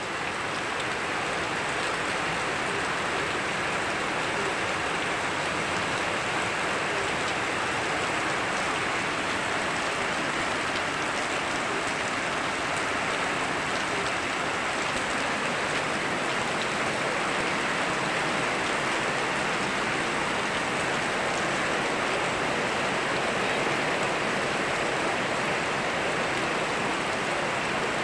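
Steady rain mixed with the rush of a river: an even, unbroken hiss of water that swells up in the first second and then holds level.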